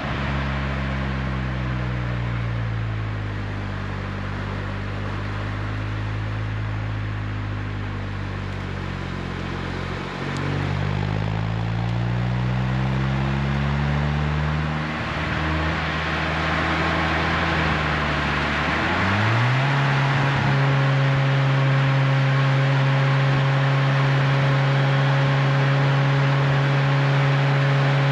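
Renault Twingo RS Gordini's 1.6-litre four-cylinder engine through an Inoxcar 80mm stainless steel aftermarket exhaust, out on the road. The engine note falls and climbs several times as the revs change. About two-thirds through it rises quickly and then holds a steady higher note, while road and wind noise grows.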